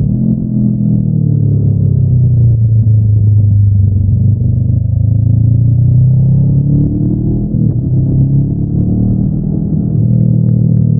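Honda NX500's parallel-twin engine through its stock exhaust, under way. The note sags in pitch towards the middle, climbs again, breaks briefly about two-thirds of the way in, then holds steady.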